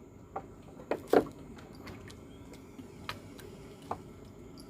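A few scattered sharp clicks and knocks, the loudest about a second in, over a faint low steady hum.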